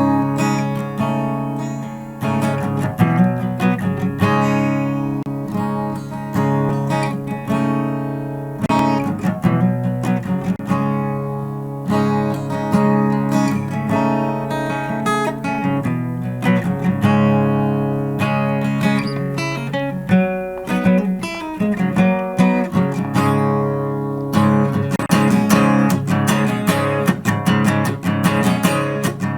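Acoustic guitar played live, strumming and picking a chord progression for the instrumental opening of a rock song before the vocals come in. It grows busier and fuller near the end.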